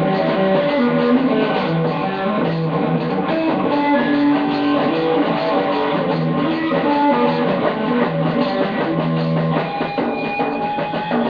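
Live rock jam: guitar and drum kit playing together, loud and continuous.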